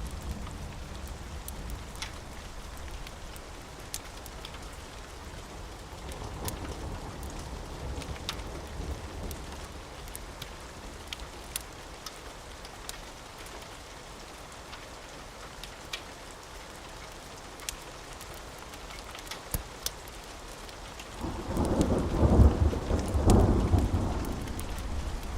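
Steady rain falling, with scattered sharp ticks through it. A faint roll of thunder comes about six seconds in, and a loud, deep rumble of thunder rolls through near the end.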